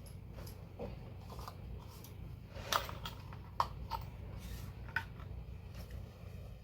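Small hand tools being handled and sorted, with light rustling and a few sharp clicks of small parts knocking together, over a faint steady hum.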